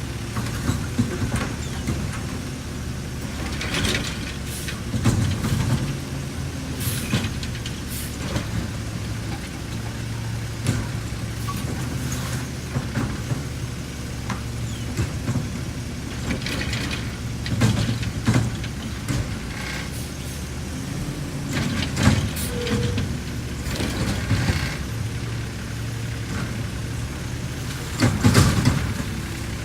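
Garbage truck engine running steadily, with a series of short clanks and hisses spread through, such as air-brake releases and the bangs of the truck working.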